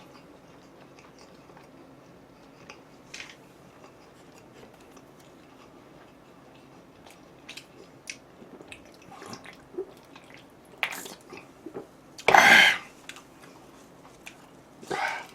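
Close-up chewing and biting while eating pizza and chicken: scattered small wet mouth clicks, with a louder short burst of noise about twelve seconds in and another near the end.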